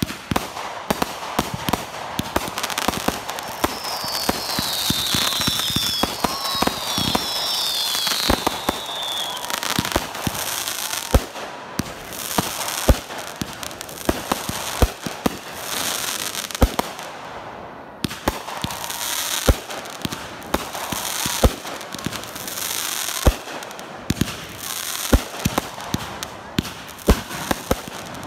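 Consumer firework cakes firing: a fast, uneven run of sharp reports as shots launch and break, over a continuous crackle. Several falling whistles come from about four to nine seconds in.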